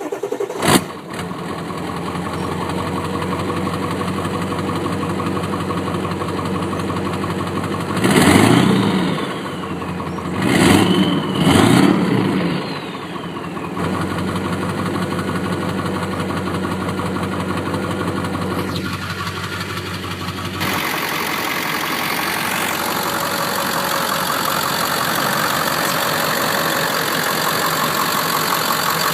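Ford 7.3-litre Powerstroke turbo-diesel V8 idling, revved up briefly twice about eight and eleven seconds in. About twenty seconds in the sound turns brighter, with more hiss.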